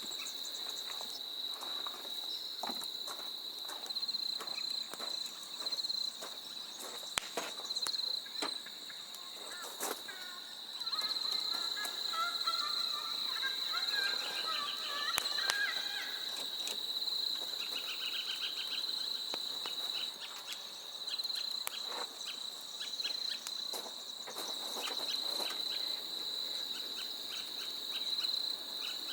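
Steady high-pitched insect chorus, with birds calling in the middle stretch and scattered light clicks and knocks.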